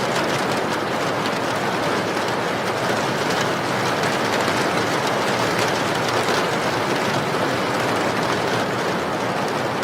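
Steady rain: an even, unbroken hiss with faint fine pattering of drops.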